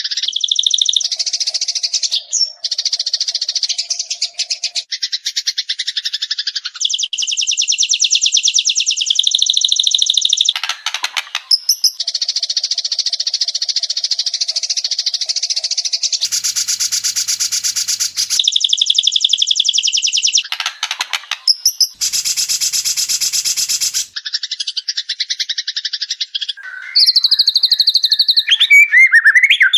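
White-rumped shama song from an edited training track: long runs of very fast repeated notes, high-pitched and loud, in blocks that change abruptly every few seconds, with a few sliding notes near the end.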